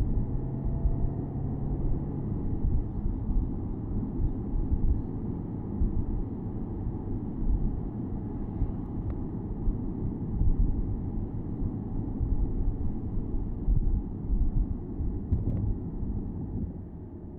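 Porsche Boxster S (987.2) flat-six engine running as the car drives along, heard with the top down under a steady low rumble of road and tyre noise. Two faint clicks are heard, one in the middle and one near the end.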